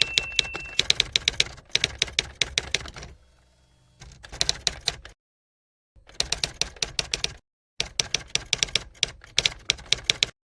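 Typewriter sound effect: fast runs of key clacks in about four bursts, with dead-silent gaps between them.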